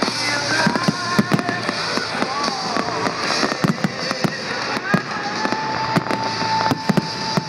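Fireworks display: a dense run of sharp bangs and crackles from bursting shells, with high whistling tones over them, one held steady for about two seconds near the end.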